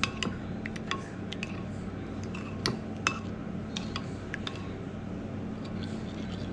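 Kitchen utensils and dishes clinking and tapping: a dozen or so sharp, irregular clicks, over a steady low hum.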